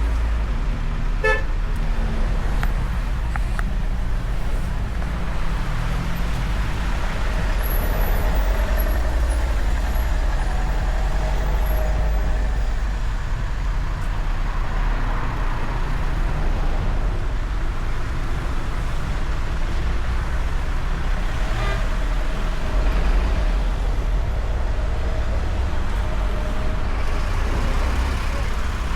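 Street traffic with cars running past in a steady low rumble, and a short car-horn toot about a second in.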